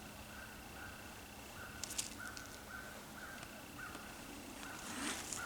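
A small animal calling in the woods: short notes at one pitch, repeated steadily about two to three times a second, over a faint steady high tone. A few crackles near the end, like steps on dry leaves.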